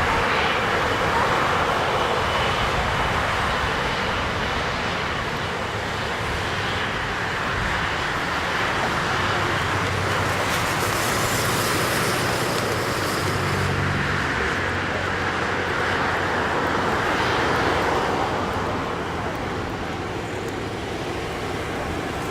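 Jet engines of a Boeing 777-200ER airliner, a loud steady rushing noise with a little low rumble. It brightens in the middle and eases slightly near the end.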